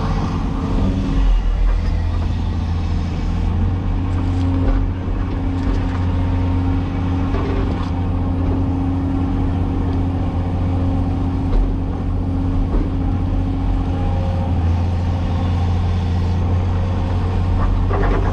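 Cat 336E excavator's diesel engine running steadily.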